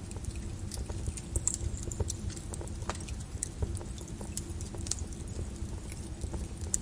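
Molten lava flow crackling and popping: irregular sharp cracks and clicks over a continuous low rumble.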